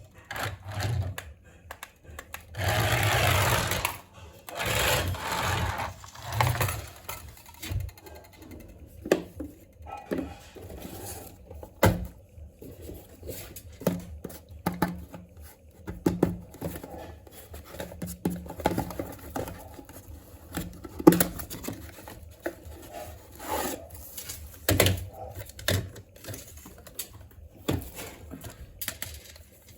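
Handling noises from unboxing a small plastic toy: about two seconds of loud rustling, then a shorter burst of it, followed by scattered light clicks and knocks as pieces are handled.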